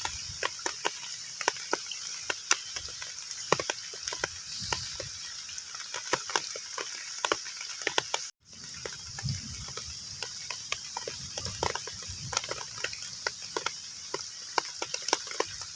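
Heavy rain falling on a pond's water surface: a steady hiss with many individual drops plinking sharply. The sound cuts out for a split second a little past halfway.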